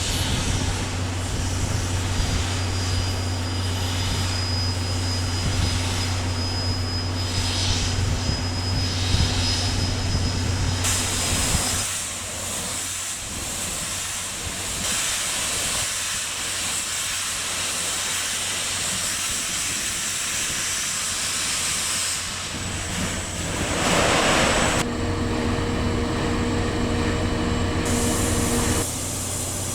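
Steam locomotive train standing or running with a steady hiss of steam over a low hum, heard in several shots that cut abruptly from one to the next.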